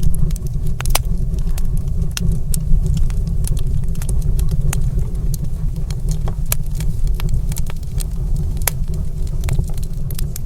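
Fire in a stone fireplace crackling, with irregular sharp pops and snaps over a steady low rumble.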